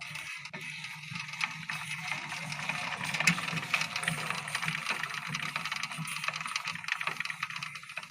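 Power tiller gearbox turning over, its gears rattling and clicking rapidly over a steady low hum; it starts abruptly.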